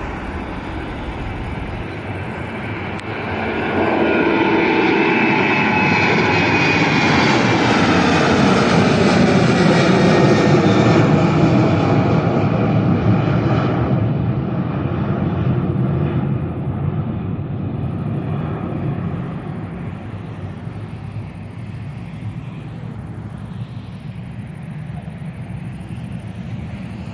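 Boeing 737-800's twin CFM56 turbofan engines at takeoff power. The jet noise swells about three seconds in, with whining tones that fall in pitch as the aircraft passes. It is loudest around ten seconds in, then fades to a lower rumble as it climbs away.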